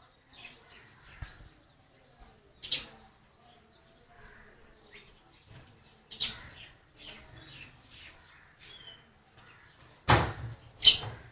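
Birds chirping in short, scattered calls, with a louder harsh burst about ten seconds in.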